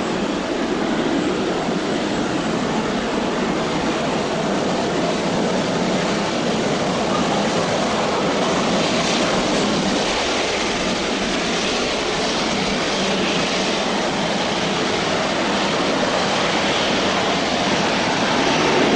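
Starlux Airbus A350-941's Rolls-Royce Trent XWB jet engines running, heard as a loud, steady rush of engine noise that swells slightly near the end.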